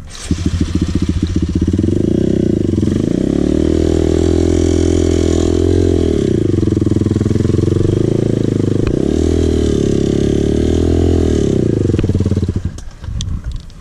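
Dirt bike engine revving, its pitch climbing and falling in several swells as the throttle is opened and eased off. It drops away shortly before the end.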